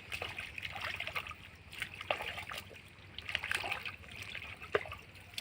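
Shallow muddy water splashing and trickling in irregular bursts, as hands work through it in search of fish.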